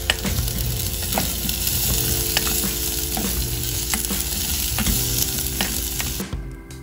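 Garlic and baby potatoes sizzling in hot oil in a stainless steel saucepan, stirred with a spatula that clicks and scrapes against the pan. The sizzle cuts off suddenly near the end.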